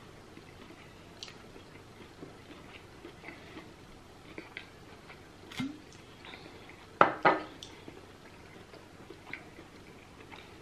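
Quiet mukbang eating sounds of hand-eaten spiced goat head (isi ewu): soft chewing, lip smacks and small clicks. About seven seconds in come two loud sharp knocks, a third of a second apart.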